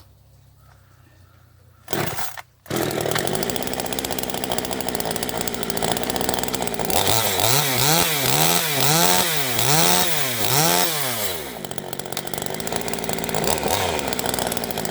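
Small Chinese two-stroke top-handle chainsaw, thought to be a Zenoah copy, warm-started: one pull of the starter cord about two seconds in and it catches almost at once. It idles, is revved up and down about five times in quick succession, then settles back to idle.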